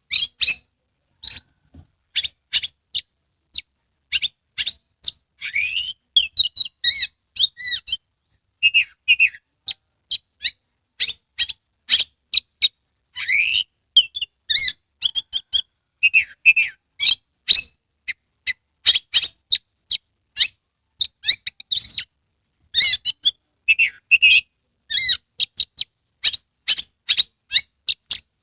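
Oriental magpie-robin (kacer) singing: a long run of sharp, short notes and quick gliding whistled phrases, closely spaced with brief pauses between.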